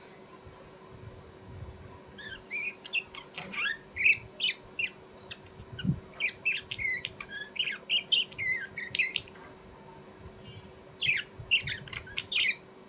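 A bird giving a rapid run of short, sharp squawks and chirps for about seven seconds, then a shorter burst of calls near the end.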